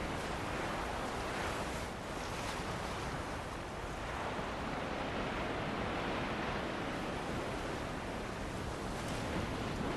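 Ocean surf washing onto a beach in steady wind, a continuous rushing that swells and eases gently.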